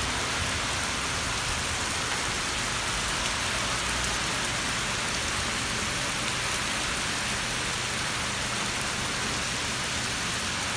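Heavy rain falling on a paved street and pavement, drops splashing on the wet ground in a steady, even hiss.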